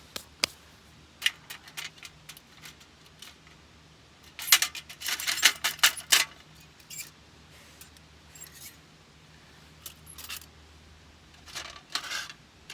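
Small steel folding stove being poked and handled: scattered light metallic clinks and scrapes, with a dense rattling cluster about halfway through and a few more clinks near the end.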